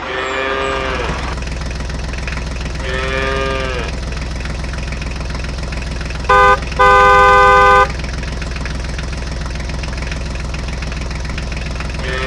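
A tractor engine running steadily, with a cow mooing near the start and again about three seconds in. Midway a vehicle horn honks twice, a short honk then a longer one, the loudest sound.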